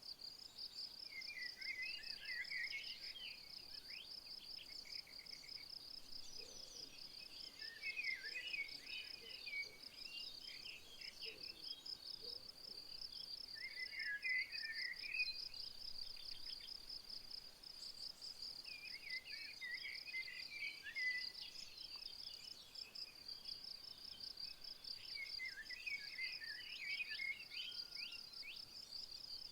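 Insects chirring in a steady, fast-pulsing high trill, while a songbird sings short twittering phrases about every six seconds, five times.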